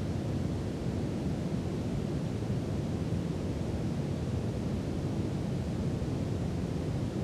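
Steady brown noise: an even, deep hiss weighted heavily toward the low end, unchanging throughout.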